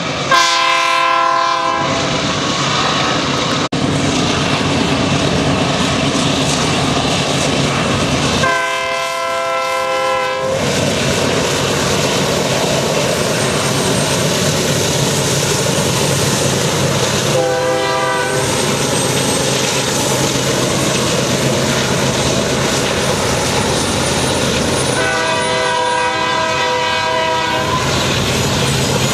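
Union Pacific diesel locomotives pulling a double-stack intermodal train sound their air horn four times, long, long, short, long. Under the horn the engines and the rolling train make a loud, steady noise with the clickety-clack of wheels on the rail joints.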